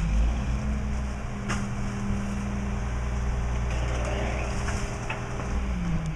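Mack LE garbage truck's diesel engine running at raised revs. The pitch climbs right at the start, holds steady, then drops back near the end, with a sharp click or knock about a second and a half in.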